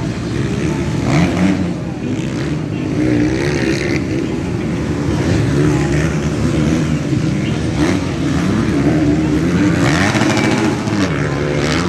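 Motocross motorcycle engines running on the track, their pitch rising and falling over and over as the riders rev and ease off.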